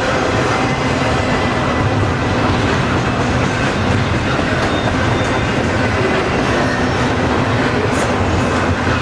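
Double-stack container freight cars rolling past on the rails, a loud, steady rumble of wheels on track.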